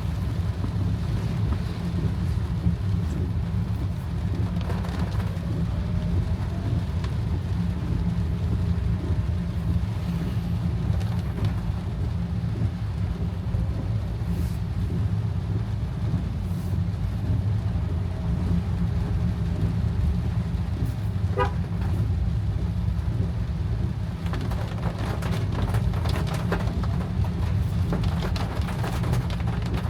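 Steady low rumble of a car's engine and tyres on a wet road, heard from inside the car in rain, with a short car horn toot about two-thirds of the way through.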